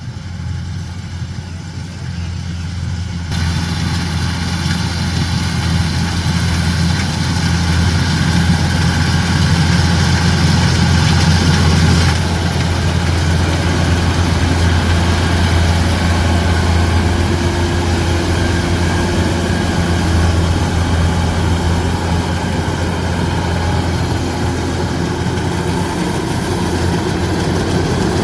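Kubota DC-105X combine harvester's diesel engine running with a steady low drone. About three seconds in the sound gets louder and fuller, and it holds there.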